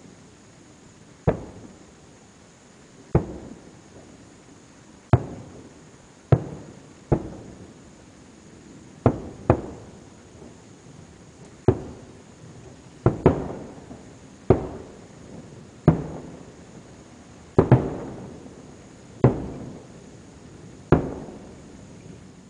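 Distant aerial fireworks shells bursting, about sixteen sharp bangs at uneven intervals of one to two seconds, each trailing off in a rolling echo.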